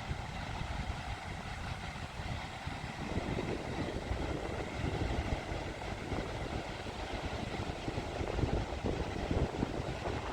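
Wind buffeting the microphone in a steady low rumble, with surf washing on the beach behind it.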